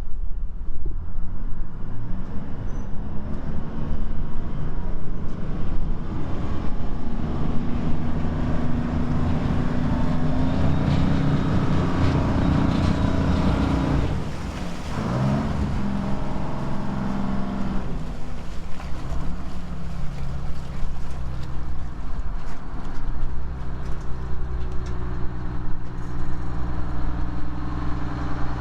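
An engine running, its pitch climbing through the middle, dipping and gliding up again, then settling back to a lower, steadier speed.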